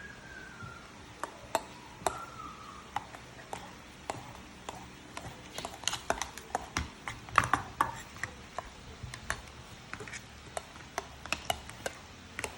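Metal utensil clinking and tapping against a bowl while mashed egg and mayonnaise are mixed: irregular sharp taps, busiest in the middle.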